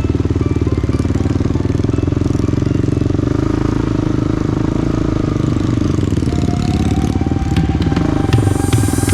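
Trail motorcycle engine running steadily, its rapid firing pulses continuous, with a few sharp clicks near the end.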